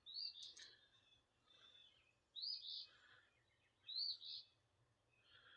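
Faint bird chirps: three short, high calls spread over a few seconds, against near silence.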